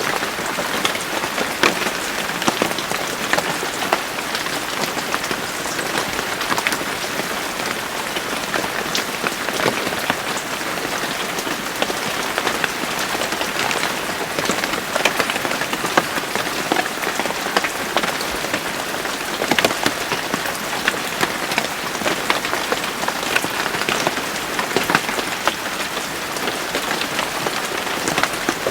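Steady rain falling on a surface, with many individual drops pattering sharply against a constant hiss.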